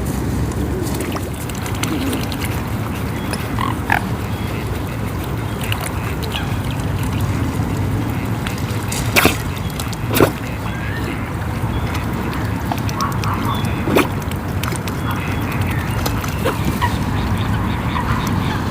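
Waterfowl on a lake calling now and then, short duck-like quacks and honks scattered through, over a steady low background rumble. A few sharper short sounds stand out, the loudest a pair about nine and ten seconds in.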